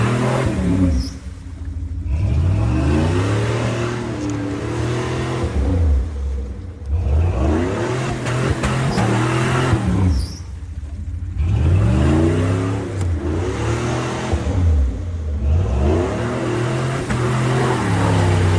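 Off-road vehicle's engine revving hard, its pitch climbing and falling about half a dozen times, with washes of rushing noise between the revs.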